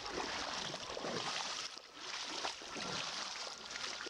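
Mountain stream water rushing and splashing as someone wades through it. The rush dips briefly a little before halfway through.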